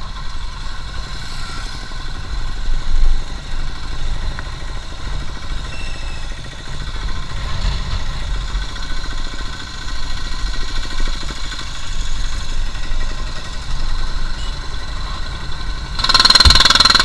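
Motorcycle riding along a road, heard from the rider: a steady low engine rumble with road and wind noise. The noise gets much louder about a second before the end.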